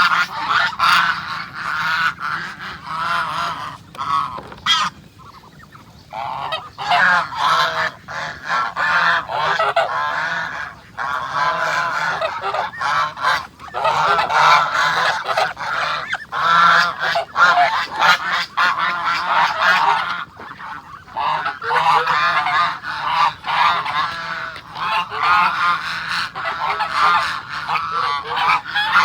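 A flock of domestic geese honking, many calls overlapping almost without a break, with short lulls about five and twenty seconds in.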